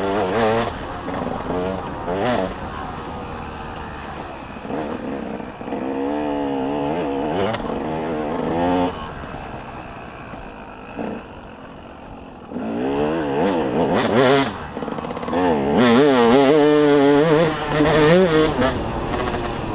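Motocross bikes running on the track, engines revving up and down in quick throttle blips as they pass. They grow loud in bursts about six seconds in and again over the last third, with a quieter lull in between.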